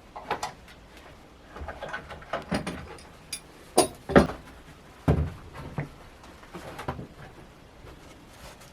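A series of irregular knocks and clunks from handling the wooden board and tool, with the loudest knocks about four and five seconds in; the router motor is not running.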